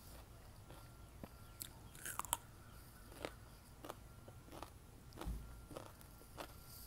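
Crisp bites into a raw cucumber spear about two seconds in, then a steady rhythm of crunchy chewing, about one chew every two-thirds of a second.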